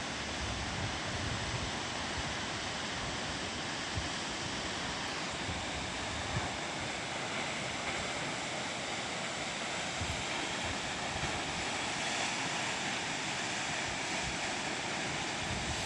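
Waterfall with a steady, even rush of falling water, with wind buffeting the microphone in irregular low bumps.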